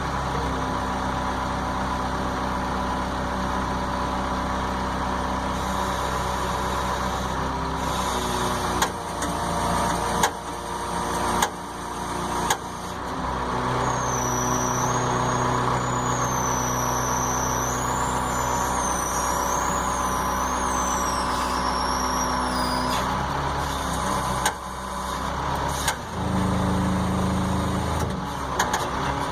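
A heavy engine idling steadily, with a few sharp knocks and clunks about nine to thirteen seconds in and two more later. A faint high wavering tone runs through the middle.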